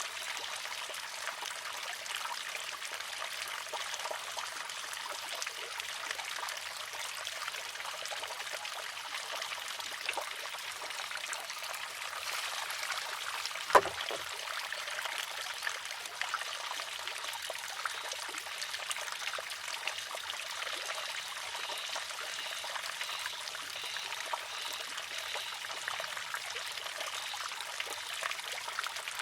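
Water trickling steadily into and out of a wooden shishi-odoshi, with one sharp clack about halfway through as the water-filled arm tips over and strikes the rock, emptying out.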